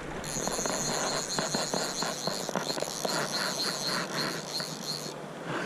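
A steady, high, pulsing insect trill, like crickets or grasshoppers, over running water with scattered small splashes. The trill starts and stops abruptly, about five seconds long.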